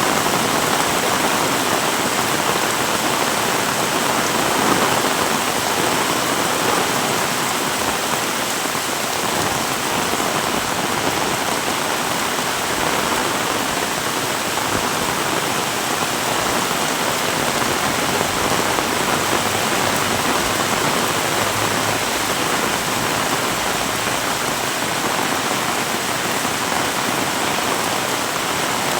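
Heavy rain falling steadily, a dense, even hiss of drops hitting the ground and nearby surfaces.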